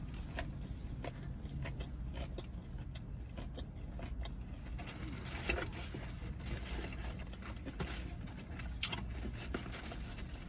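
Close-up eating sounds: a person chewing crunchy fried chicken, with small crackly clicks that come thicker and sharper from about halfway through, over a low steady hum.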